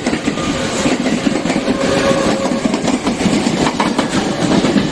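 Train passing at speed, its wheels clattering rapidly over the rail joints in a loud, continuous rumble.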